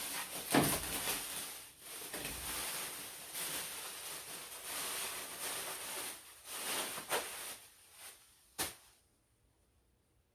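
Cleaning sprayer hissing in gusts as it jets onto an air conditioner. It stops with a sharp click near the end.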